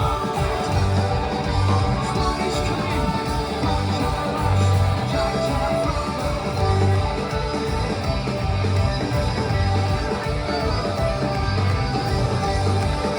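Celtic punk band playing live at full volume: guitars and sustained melody lines over a steady, driving beat.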